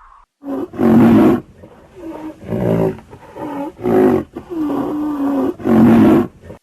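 Big cat roaring: a series of about seven loud calls, some long and drawn out, others short.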